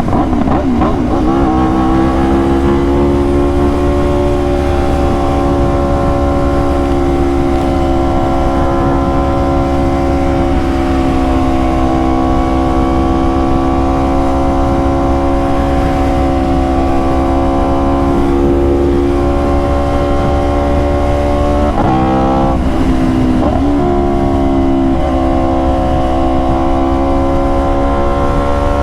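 Aprilia RSV4 V4 engine running at a steady speed under the rider, with wind rushing over the microphone. About 22 seconds in the engine note dips and climbs back twice in quick succession, then holds steady again.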